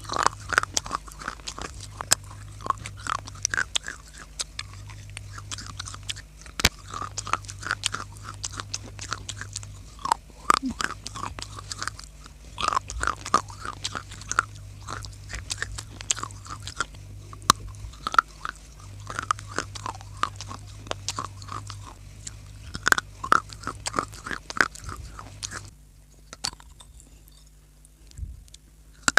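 Close-up crunching of dry clay being bitten and chewed: a dense run of sharp crackles that stops about 26 seconds in. A steady low hum sits underneath.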